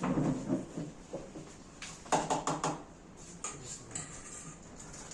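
Eating sounds from pani puri being eaten: a quick cluster of sharp crunches and clicks about two seconds in, with a few smaller clicks after.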